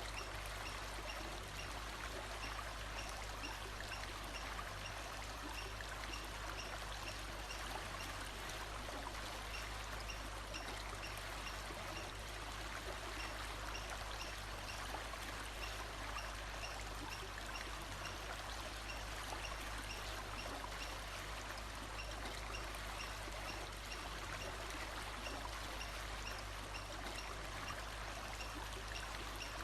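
Running stream water, a steady rushing. A faint high chirp repeats about twice a second through the first part and fades out.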